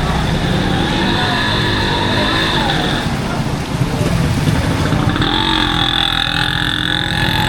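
Busy street traffic: motor vehicle engines running close by, with voices of passers-by mixed in, steady throughout.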